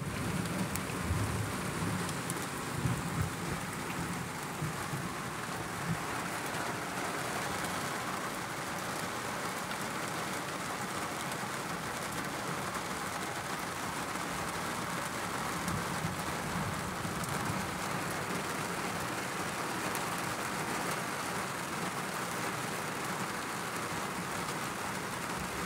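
Heavy rain pouring steadily onto a car's roof and windshield, heard from inside the car, with low rumbles of thunder in the first few seconds.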